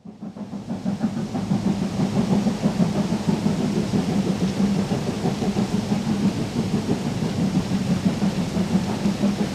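Steam locomotive working hard up a steep gradient: a loud, continuous rumbling roar that builds over the first second or two and then holds steady.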